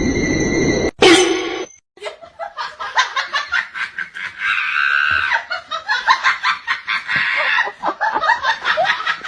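A person laughing in rapid bursts of giggling, starting about two seconds in after a short noisy stretch cuts off.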